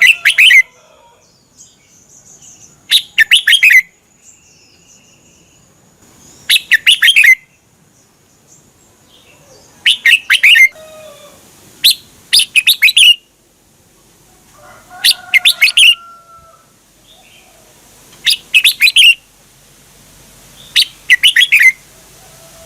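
Red-whiskered bulbul singing: short phrases of quick, bright notes, eight of them, repeated every two to three seconds with pauses between.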